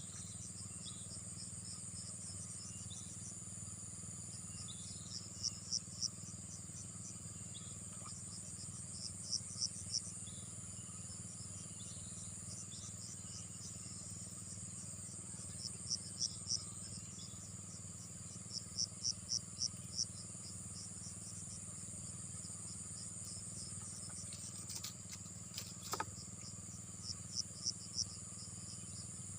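Insects calling at the waterside: a steady high-pitched drone, with repeated groups of three to five short, sharp chirps every few seconds. A low steady hum runs beneath.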